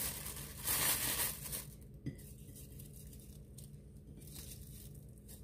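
Clear plastic bag crinkling and crisp roasted seaweed sheets rustling as they are handled, loudest for the first second and a half, then dropping to faint, scattered rustles.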